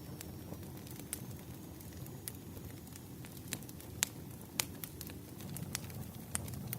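Campfire burning: a steady low rush of flames with irregular sharp pops and crackles of burning wood, two louder pops a little after the middle.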